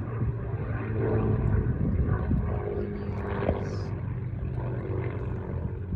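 Avro Lancaster bomber's four Rolls-Royce Merlin piston engines droning steadily overhead, a low, even propeller hum.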